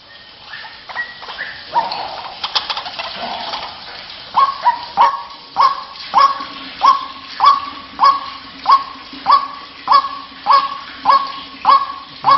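White-breasted waterhen (ruak-ruak) calling. After a few scattered notes, from about four seconds in it settles into a short note repeated evenly about one and a half times a second, each note dropping slightly in pitch.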